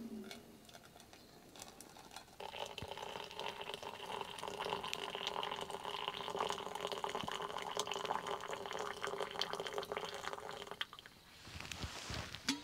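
Water pouring into a container for about eight seconds, starting about two seconds in and stopping near the end.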